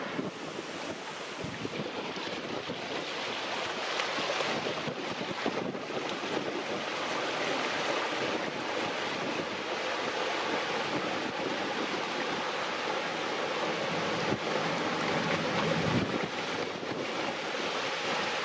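Strong wind blowing across the microphone: a steady, unbroken rushing noise that swells and eases a little.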